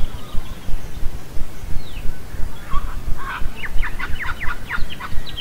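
Wild birds calling: a single falling note about two seconds in, then a quick run of short falling notes, several a second, from about three seconds in. Under it is a loud, uneven low rumble of wind on the microphone.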